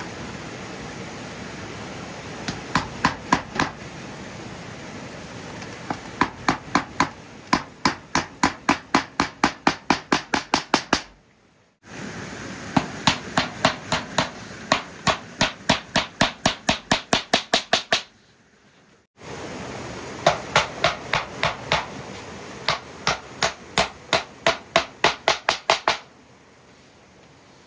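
Runs of sharp hammer strikes, about three a second, over a steady rushing background noise. Each run breaks off abruptly a few times.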